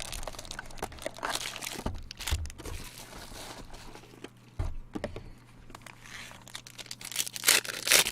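Cellophane trading-card pack wrappers crinkling and tearing while cards are handled, with the loudest crinkle near the end.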